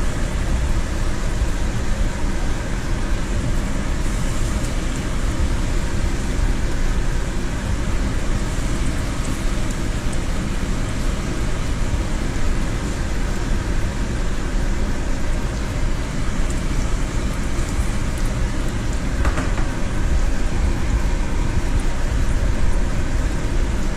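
Breaded walleye fillets frying in hot oil in a pan: a steady sizzle over a low rumble.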